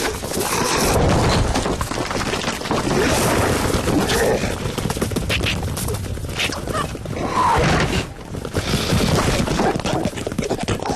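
Cartoon slapstick sound effects: a dense run of crashes, thuds and bangs with character vocal noises, easing briefly about eight seconds in.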